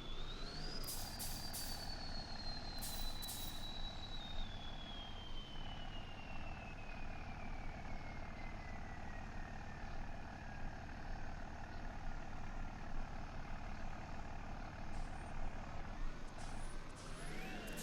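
Truck engine running with a high whine that slowly falls in pitch over about ten seconds. Near the end the engine revs and the whine rises again.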